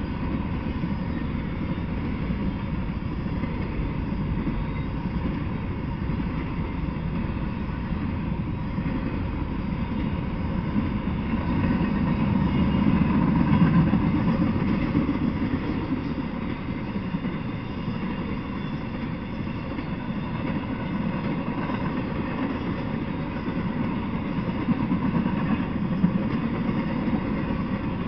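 Freight train of empty intermodal well cars rolling past, a steady low rumble of wheels on rail that swells for a few seconds about halfway through.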